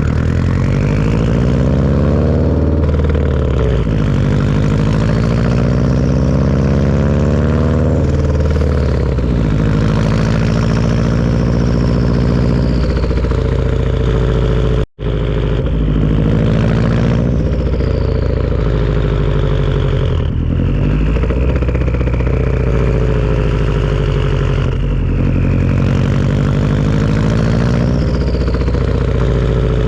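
Turbocharged Subaru boxer engine breathing through a Tomei turbo-back exhaust, its revs climbing and dropping back again and again, with a high turbo whistle rising and falling above the engine note. The sound cuts out for an instant about halfway.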